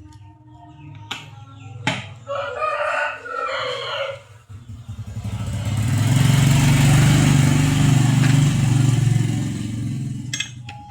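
A rooster crowing, followed by a loud machine noise with a low hum that swells and fades over about five seconds.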